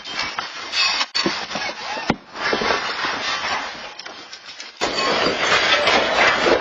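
Loud rattling and clattering of a building and its contents shaking in the 2018 Alaska magnitude 7.0 earthquake, with a sudden break about five seconds in.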